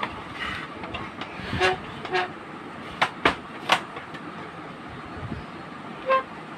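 Sharp clicks and clinks of small parts and tools being handled, some with a short metallic ring. The loudest three come close together in the middle.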